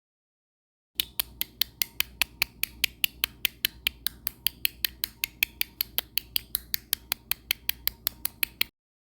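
A rapid, even series of sharp clicks, about five a second, starting about a second in and cutting off abruptly near the end. It is an edited-in clicking sound track.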